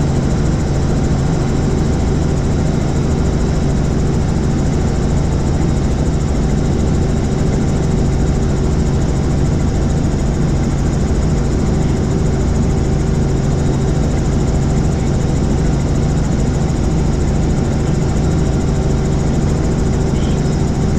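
Helicopter in flight: steady engine and rotor noise, with a constant low hum and several fixed tones over a broad rushing noise, unchanging throughout.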